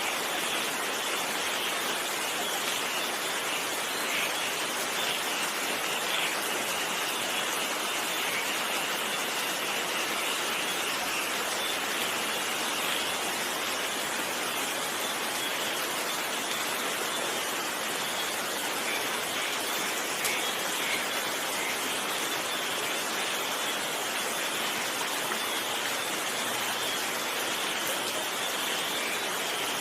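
Steady rain falling, an even hiss with no change in level and no thunder.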